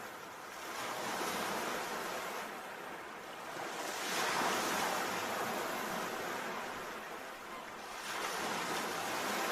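Sea waves breaking and washing up the shore, the surf noise swelling and falling back about every four seconds, three surges in all.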